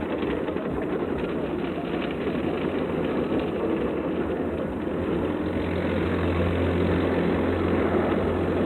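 Automatic car wash equipment running steadily: a dense rush of spray and machinery noise, with a low motor hum setting in about two thirds of the way through.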